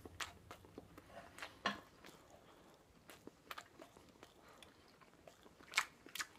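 A person chewing a mouthful of fried rice: faint, irregular wet clicks and smacks of the mouth, with two slightly louder ones about two seconds in and near the end.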